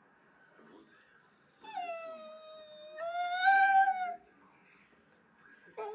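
A shepherd dog howling: one long drawn-out call that slides down in pitch, then a second, louder one that rises and falls, and a third starting near the end that drops steeply.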